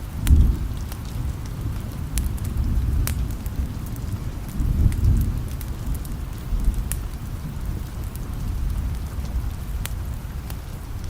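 Steady rain with low rolls of distant thunder, one just after the start and another about five seconds in. Scattered sharp ticks run through it.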